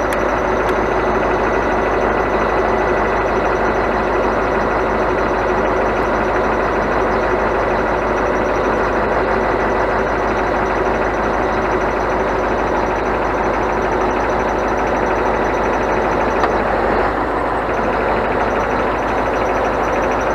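Scania truck running steadily on the move, a constant drone of engine and road noise with a few faint steady tones on top, easing slightly near the end.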